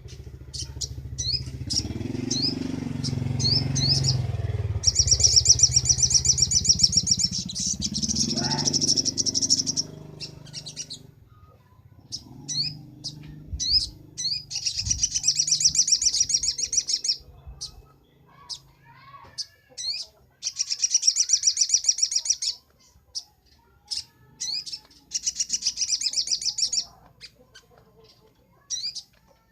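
Little spiderhunter (sogok ontong) singing in fast, high rapid-fire trills: four bursts of two to five seconds each, with short single chirps between. A low rumble runs under the first third.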